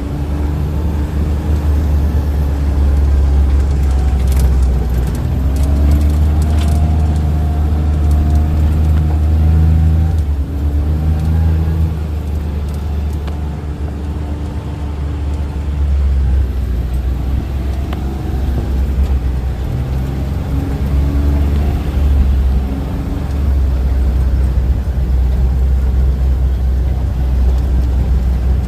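A motor vehicle's engine running while under way, a steady low rumble whose pitch rises and falls several times with changes in speed.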